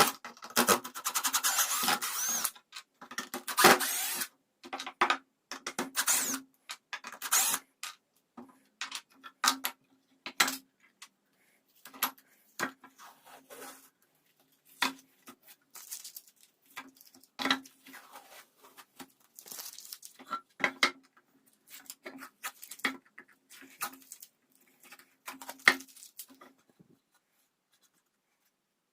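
Irregular metallic clicks, taps and rubbing of hand tools working on small metal parts, many taps leaving a short low ring. The taps stop about two seconds before the end.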